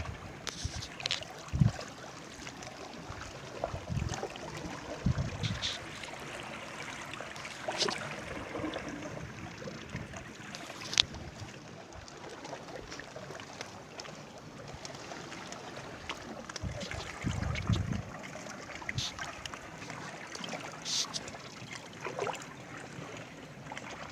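Water lapping and splashing at the shore, with irregular small splashes and a few low thumps.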